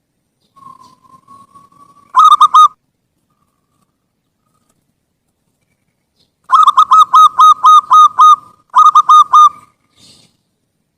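Zebra dove (perkutut) cooing: a soft drawn-out coo, then a quick burst of four loud notes about two seconds in. After a pause of about four seconds comes a longer rapid run of about eight notes, then a short run of three or four.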